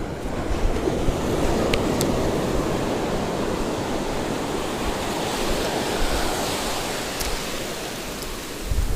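Ocean surf washing on the beach, a steady rush that swells early on and eases a little toward the end, with wind buffeting the microphone.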